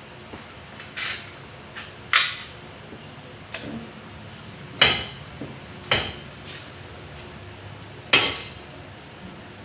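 A hammer striking metal, about six sharp ringing clanks at uneven intervals a second or two apart, during work on a rear axle bearing.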